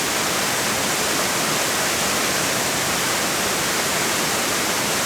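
A waterfall cascading over rocks in a river: a loud, steady rush of falling water.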